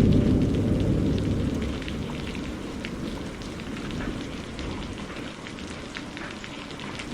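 Steady rain falling, with individual drops ticking close by. A low thunder rumble dies away over the first couple of seconds.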